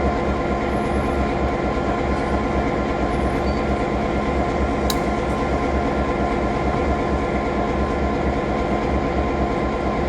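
Passenger train running, a steady low rumble from the wheels and running gear, with one sharp click about five seconds in.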